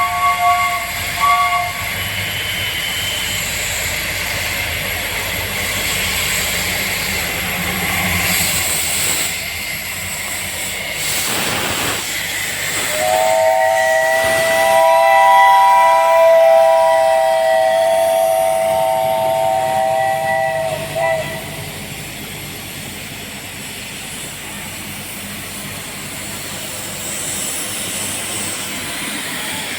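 Pacific-class steam locomotive hissing steam steadily. Its whistle sounds a brief chord of several tones at the start, then one long chord blast of about eight seconds past the middle, sagging slightly as it cuts off.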